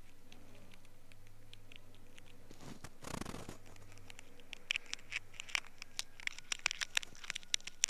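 Ear-scraping tool scraping inside the ear canal close to the microphone: a brief rustle about three seconds in, then irregular sharp scratching clicks from about halfway that come faster and louder toward the end.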